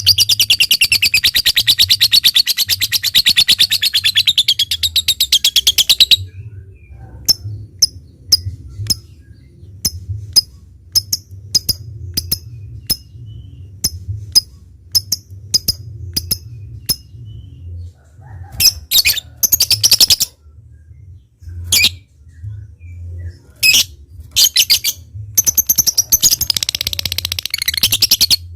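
Lovebird singing: a long, rapid, high chattering trill (ngekek) for about six seconds, then a run of short separate ticking calls (ngetik), roughly one or two a second, then short chattering bursts and another long trill near the end.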